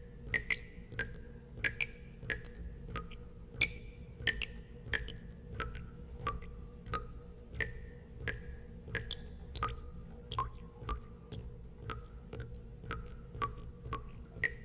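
Water drops falling into water one after another, about two a second at uneven spacing, each a sharp plink with a short ringing tone whose pitch changes from drop to drop, over a steady low rumble.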